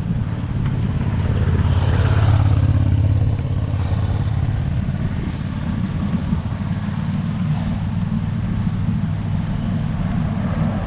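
Steady wind rumble on the microphone of a camera riding on a road bike. A motor vehicle passes about two seconds in, its sound swelling and then falling in pitch as it goes by.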